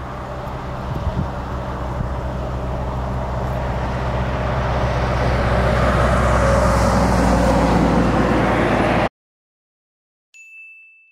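A motor vehicle's engine running with a steady low hum, growing louder over the first several seconds, then cut off abruptly about nine seconds in. About a second later comes a faint, short, high beep.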